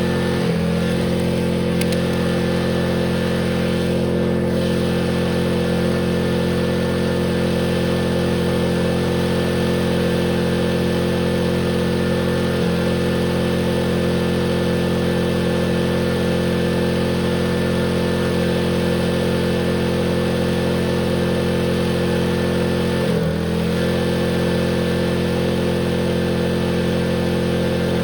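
Tractor engine running flat out at a steady, held speed. Its note sags briefly and recovers twice, once right at the start and once late on.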